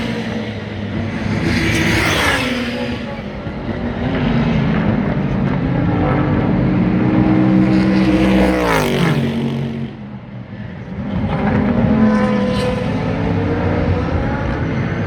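Super GT race cars going past one after another at speed. Loud swells come as each car passes close by. About nine seconds in, one car's steady engine note drops sharply in pitch as it goes by.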